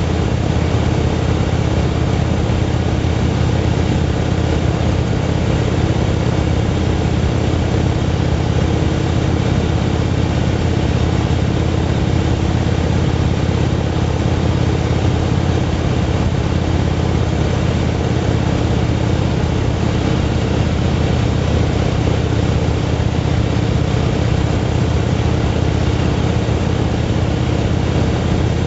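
Motorcycle engine running steadily at cruising speed, a constant low drone with no change in pitch or level.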